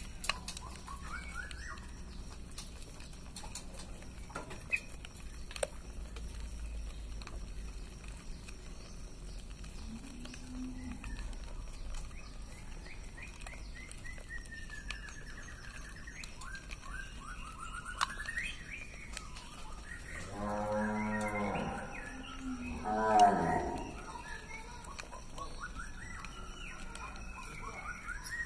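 Male straw-headed bulbul (cucak rowo) giving scattered warbling, gliding song phrases. Twice near the end a louder, deep animal call with a drawn-out tone cuts in, the second one the loudest.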